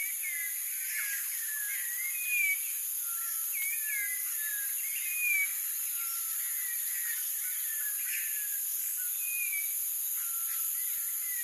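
Many short slurred bird whistles, overlapping and coming every fraction of a second, over a steady high-pitched insect drone.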